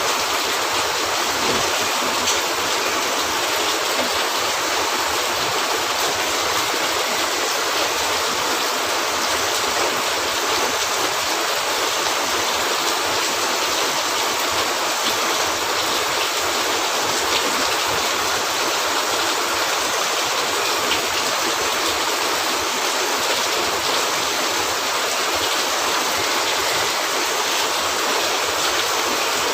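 Steady heavy rain on a cabin roof, an even unbroken hiss, with a few faint sharp ticks here and there.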